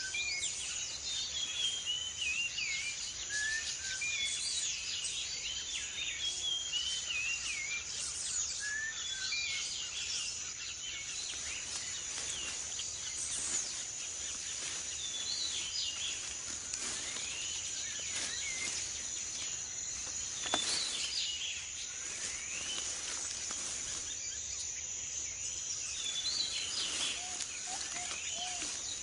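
Tropical rainforest ambience: a steady high insect drone with many short bird chirps and gliding calls over it, busiest in the first ten seconds and again near the end. One brief sharp click about twenty seconds in.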